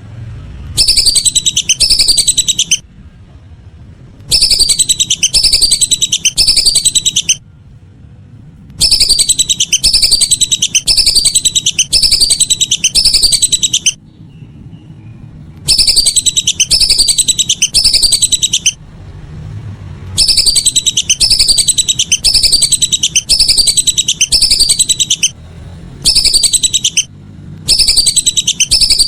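Whistling duck (belibis) calls played as a lure recording: loud, high whistles that each fall in pitch, coming in runs of three to six with short pauses between them, over a low steady hum.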